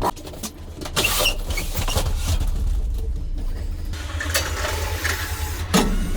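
An engine rumbling steadily at low revs, with scattered knocks and clatter throughout and a louder knock near the end.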